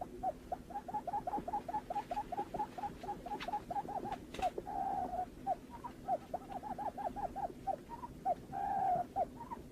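Barred buttonquail calling: a fast run of short, low hooting notes, about six a second, broken by two longer drawn-out notes in the middle.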